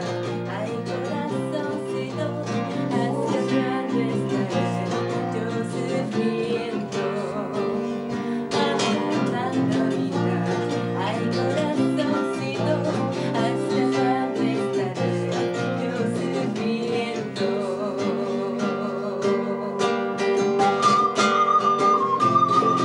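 Live acoustic guitar music, plucked and strummed. Near the end a wind instrument comes in with a long held high note.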